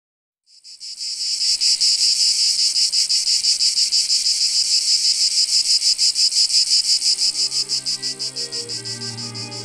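Cicadas buzzing loudly in a rapid, even pulsing drone that comes in about half a second after a silence and eases slightly near the end. Low, sustained music tones rise under it in the last few seconds.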